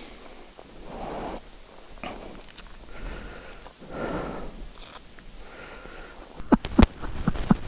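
Gusts of wind rushing over the microphone in several swells. Near the end comes a quick run of sharp, loud knocks and thumps.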